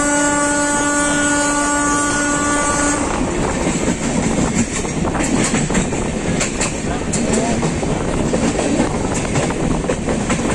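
A train horn sounds one long steady blast for about three seconds, over the rumble of a passenger coach on the move. After that the wheels clatter over rail joints and points as the train picks up speed.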